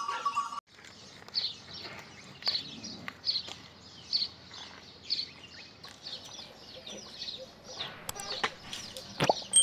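A bird repeating a short, falling high chirp about once a second, with a few clicks and a sharp knock near the end.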